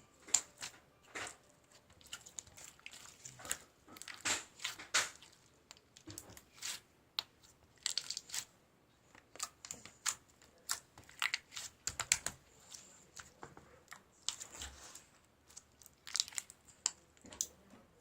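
Irregular handling noise: many short, sharp crackles and rustles, several a second, like material being crinkled or torn.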